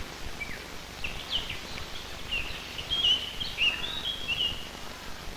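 A bird chirping in a quick run of short, high notes over the steady hiss of an old film soundtrack.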